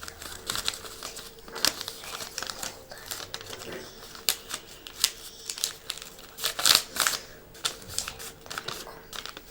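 A sheet of paper rustling and crackling as it is folded and creased into a paper airplane. It comes as a string of sharp crinkles, the loudest about seven seconds in.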